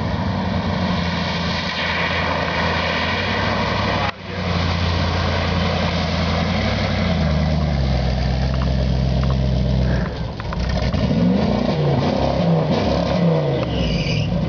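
A 1984 Dodge Ram pickup's engine working hard as the truck drives through deep flood water, over a steady rush of water thrown up around it. The engine note holds, drops about halfway through, then rises and falls several times near the end as it is revved.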